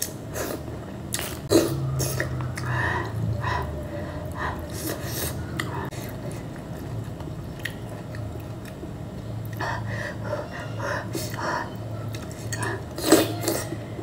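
Close-miked eating of green mussels in sauce: chewing and mouth noises, with sharp clicks of the shells, the loudest about a second and a half in and near the end.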